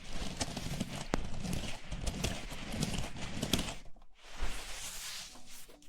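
Close-miked ASMR handling sounds: a dense run of clicks and hollow knocks with soft low thuds, easing off about four seconds in, then a brief rustling burst.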